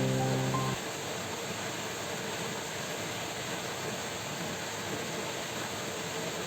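Steady heavy rain, an even hiss with no distinct drops standing out. Soft background music stops abruptly under a second in.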